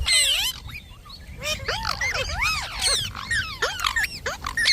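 Indian ringneck parrot calling: a rapid run of short, arching whistles and chirps that rise and fall in pitch, sparse for the first second and then coming thick and fast.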